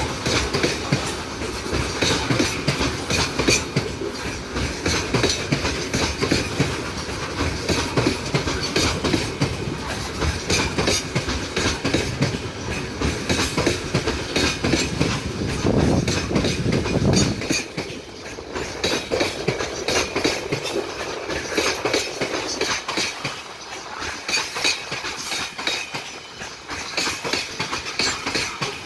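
Train wagons rolling past, wheels clattering steadily over the rail joints. A heavy low rumble underneath drops away about two thirds of the way through, while the clatter of the wheels keeps going.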